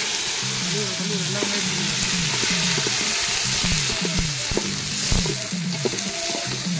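Food frying in hot oil in an aluminium pot, a steady sizzle, stirred with a metal ladle that knocks against the pot now and then. Background music with a repeating low falling figure plays underneath.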